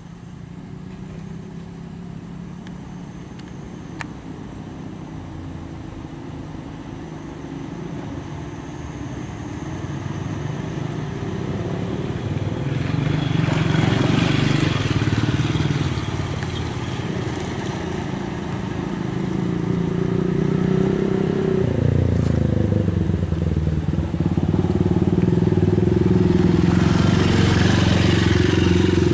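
Loaded trucks driving past on the road: engine drone builds as each approaches, with a rush of tyre noise as one goes by about halfway through and another near the end. The engine pitch drops and changes once between the two passes.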